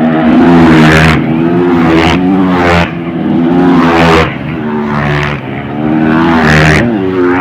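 Motocross dirt bikes racing, their engines revving hard, the pitch climbing and dropping about six times as the riders throttle on and off.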